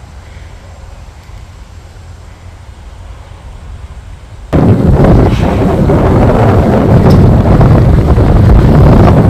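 Heavy wind buffeting the microphone: a faint low rumble that jumps abruptly to loud, continuous buffeting about four and a half seconds in.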